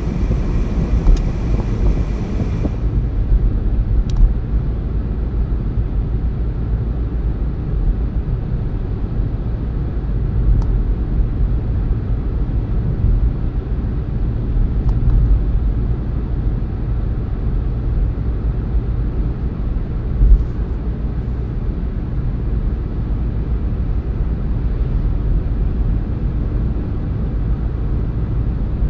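Car driving along a road: a steady low rumble of tyres and engine, with a short thump about twenty seconds in.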